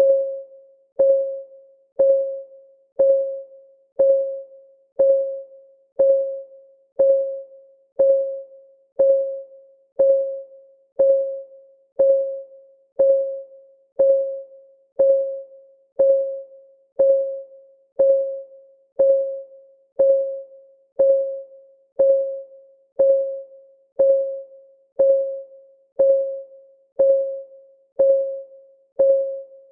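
Countdown timer's clock-ticking sound effect, one tick every second. Each tick is a short pitched tone that dies away quickly.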